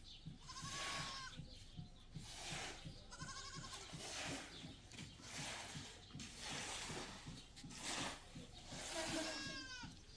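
Herd animals bleating: three wavering calls, one about a second in, one near three seconds and one near the end.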